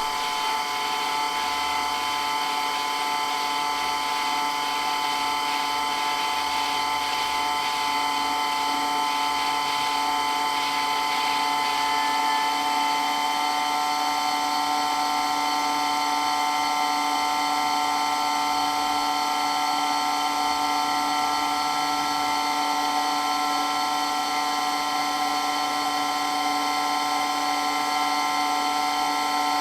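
Water pump running steadily with a loud, unchanging high whine made of several pitches at once.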